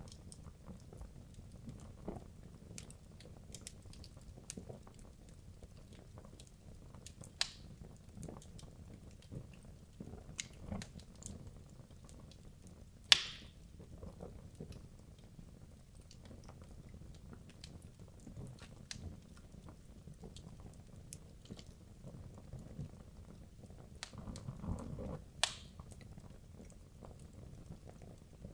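Wood logs burning in a fireplace: a low steady rush of flame under frequent small crackles and snaps, with a few louder pops, the loudest about halfway through.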